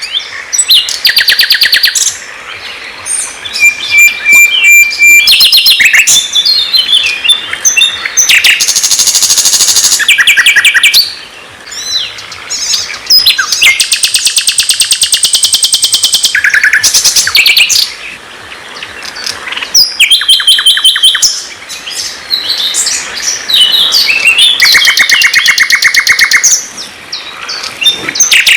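A songbird singing loudly in long runs of rapid repeated notes and buzzy trills, high-pitched and varied, with brief pauses between phrases.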